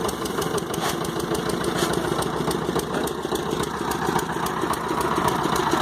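A small fishing boat's engine running steadily, with an even, rapid chugging beat.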